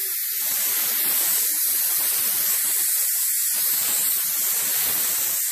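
Electric pressure cooker's release valve hissing steadily as the built-up steam is vented after cooking, with an uneven lower rumble coming and going underneath.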